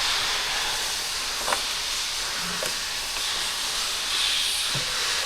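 Steady hissing noise, with a light click about a second and a half in.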